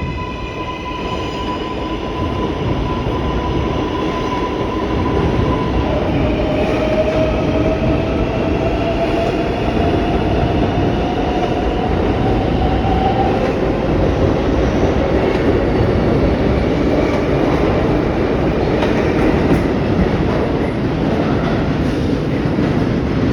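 R142A subway train pulling out and picking up speed. At first a cluster of steady electric whines sounds, then fades after a few seconds. From about six seconds in, a single whine climbs slowly in pitch for about seven seconds, over a steady, loud rumble of wheels on rail that grows a little louder.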